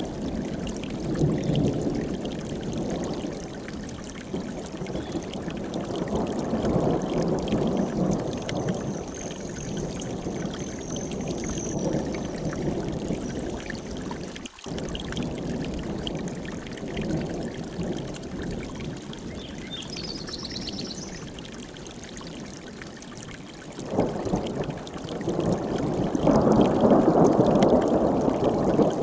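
Mountain stream rushing steadily, swelling and easing, loudest near the end, with a brief dropout about halfway. Faint high bird calls come twice, about a third of the way in and again past two-thirds.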